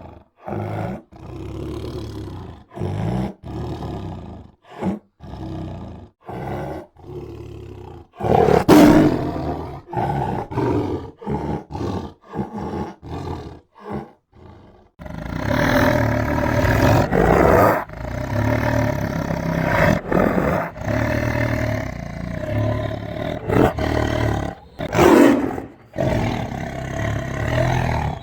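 Tiger growling and roaring: short separate growls about once a second with gaps between, one louder roar about nine seconds in, then from about halfway an almost unbroken run of loud roaring.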